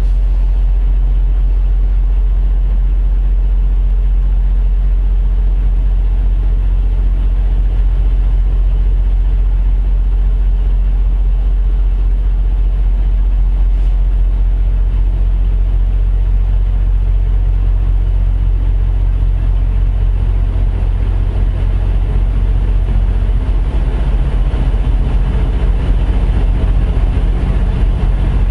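Heavy truck engine idling steadily, a constant low drone.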